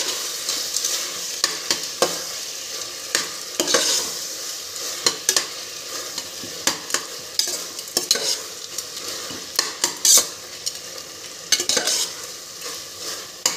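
Spatula stirring and scraping through onions, tomatoes and peas frying in oil in a pot: a steady sizzle broken by frequent, irregular scrapes and clicks of the spatula against the pot.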